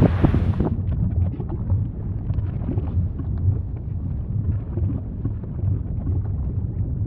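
Volcanic eruption: a steady low rumble with dense crackling over it.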